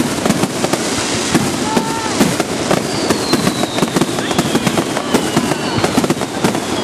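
Starmine fireworks barrage: a dense, rapid run of bangs and crackling pops, with long whistles falling slowly in pitch about three seconds in and again near the end.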